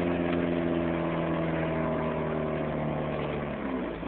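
1994 Chevy Cavalier's 2.2-litre four-cylinder engine running while misfiring on two cylinders, its spark plug wires wet and arcing. Its pitch sags slightly, then drops away near the end.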